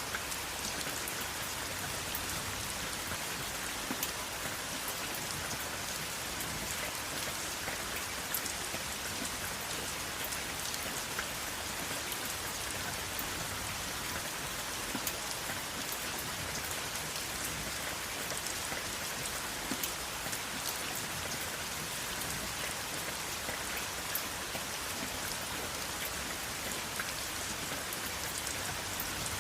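Steady rain falling: an even hiss with scattered individual drops ticking through it, and no thunder.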